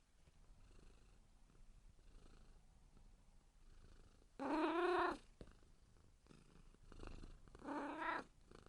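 A kitten purring faintly, with two meows: a loud one lasting nearly a second about halfway through, and a shorter, lower one near the end.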